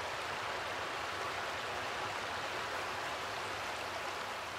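Steady, even rush of running water, starting to fade out at the very end.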